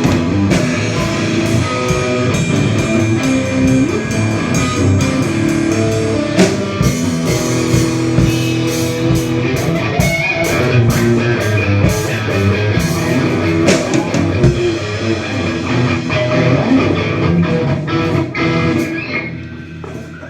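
Rock band playing at a sound check, with guitar and drum kit; the playing dies down near the end.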